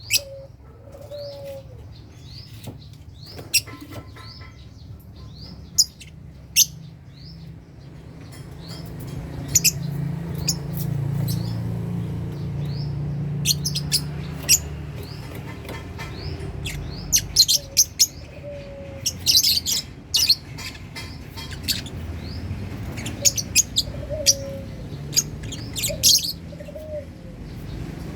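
Lovebirds in a colony cage chirping: a run of short, quickly repeated rising chirps at first, then bursts of shrill calls and sharp clicks later on. A low rumble swells under them in the middle.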